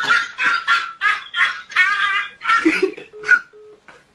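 A person laughing in a run of short bursts, about three a second. Near the end come two short, steady low tones.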